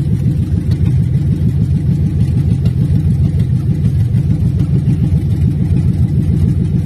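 Swapped-in V8 engine of a 1968 Chevrolet Chevelle Malibu idling steadily, idling nicely with an even, rapid exhaust pulse.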